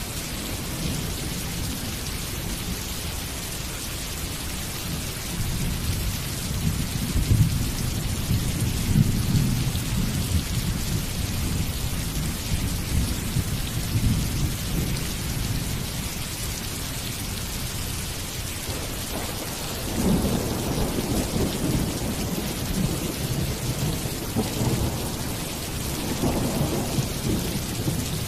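Steady rain with thunder rumbling twice: a long roll building about five seconds in and fading away, and another starting about twenty seconds in.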